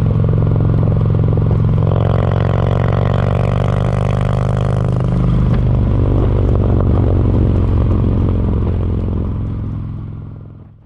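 Harley-Davidson Milwaukee-Eight V-twin running through Screamin' Eagle Street Cannon mufflers, 4.5-inch baffled slip-ons, which give a moderate, not very loud exhaust note. The engine runs steadily, with the note busier for a few seconds about two seconds in, then fades out near the end.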